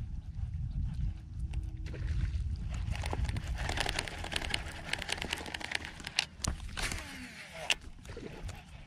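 Water sloshing and splashing against a kayak, with a dense run of clicks and knocks in the middle, over a low rumble of wind on the microphone at the start.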